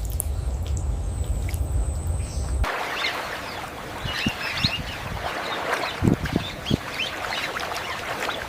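Wetland ambience: a low rumble with a steady high whine, cutting abruptly about three seconds in to a hiss full of dense, quick bird chatter, with a few short low calls among it.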